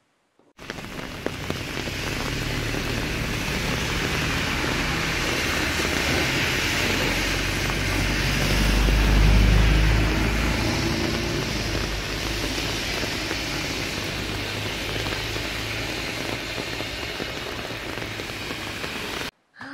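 Heavy rain falling on a road surface, a loud, steady hiss that starts abruptly and cuts off just before the end. A low rumble swells and fades about halfway through.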